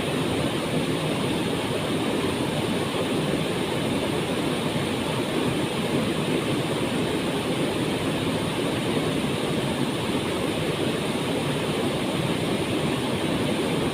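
Steady, unbroken rush of falling water from the We'e Kacura waterfall.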